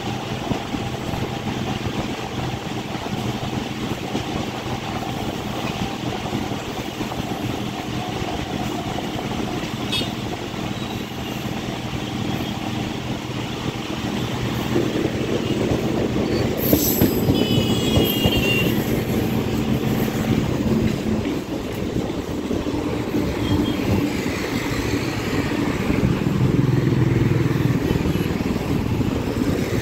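Suburban electric multiple-unit (EMU) train running at speed, with a steady rumble and rattle of the coach on the rails heard from its open doorway, getting louder about halfway through. A brief high-pitched toot sounds a little past halfway.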